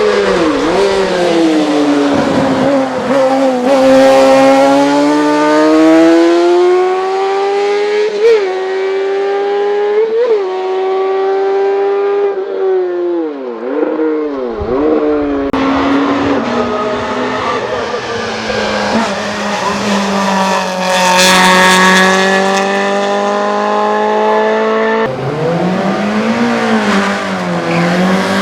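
Race car engines at full throttle, pitch climbing and then dropping sharply at each gear change, with a few quick blips between. The engine sound changes abruptly a few times as different cars take over.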